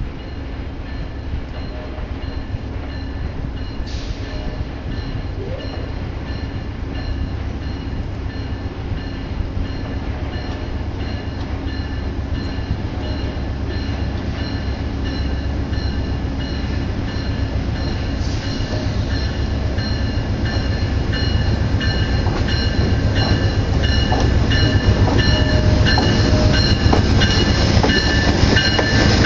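A train's diesel locomotive approaches, its engine and wheel rumble growing steadily louder as it nears. Throughout, a repeated high ringing sounds, typical of the locomotive's bell rung on entering a station.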